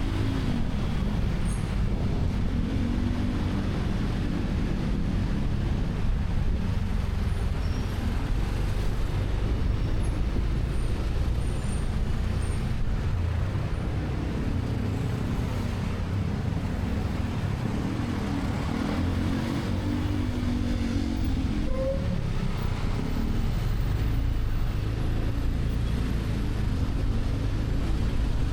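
Motorcycle engine running under way, its note rising and falling several times with the throttle, over steady road and wind noise and the sound of surrounding traffic.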